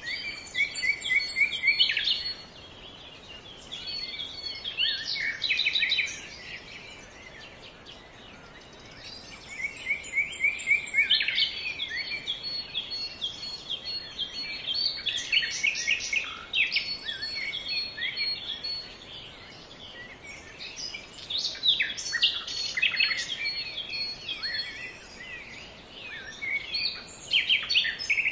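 Songbirds chirping and singing in quick high trills, in phrases a few seconds long with short lulls between.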